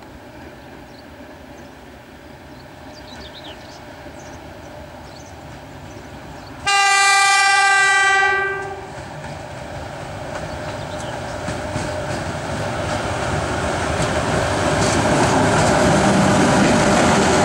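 EP1M electric locomotive sounding its horn in one steady blast of about two seconds, starting about a third of the way in. It is followed by the rumble of the locomotive and its passenger coaches on the rails, growing steadily louder as the train comes close.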